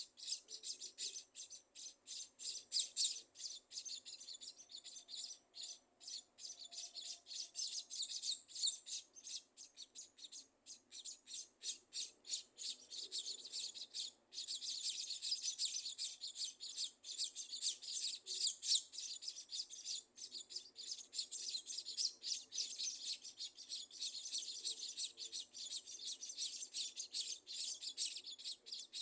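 Scaly-breasted munias chirping: a dense, rapid run of high-pitched chirps, with a brief break about halfway through.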